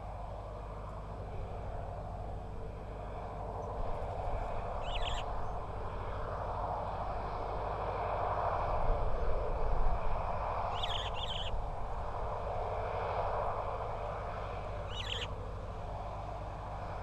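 Outdoor wildlife-camera ambience: a steady low hum under a rushing background noise that swells for a few seconds midway. Over it, a bird gives short calls three times, the middle one doubled.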